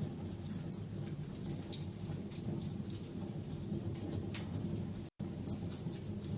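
Wood fire burning with scattered sharp crackles and pops over a steady low rumble of flames; the sound breaks off for an instant about five seconds in.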